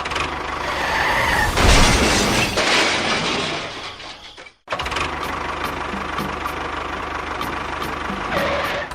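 A loud noisy burst of loose rattling about two seconds in, then, after a sudden cut, a small motor running steadily with an even low pulse.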